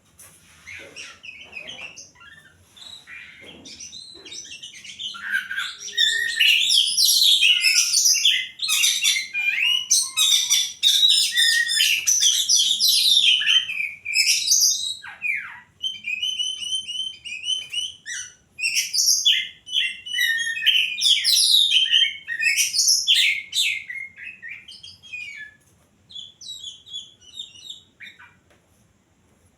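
A caged songbird (a 'poci') singing a fast, dense run of high chirps and trills. It builds over the first few seconds, is loudest through the middle, then breaks into shorter phrases with gaps and tails off near the end.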